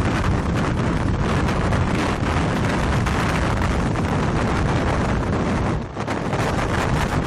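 Strong wind near a tornado blasting across the microphone in a dense, continuous rush, with a brief lull about six seconds in.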